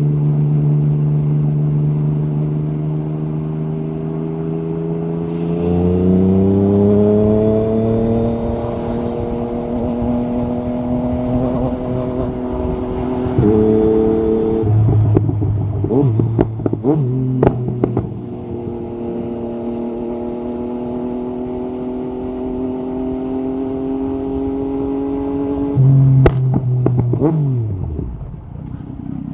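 Yamaha MT-09 SP's three-cylinder engine through an Akrapovic carbon Racing-Line exhaust with the dB killer out, running under way. It pulls up in pitch about six seconds in, changes gear twice around the middle, and crackles and pops for a few seconds. It then holds a steady cruise before a blip and a falling note as it slows near the end.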